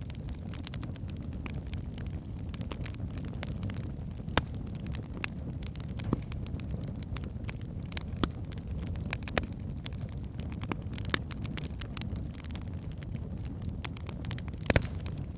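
Burning logs crackling and popping over a steady low rumble of the fire, with sharper pops about four seconds in, about eight seconds in and near the end.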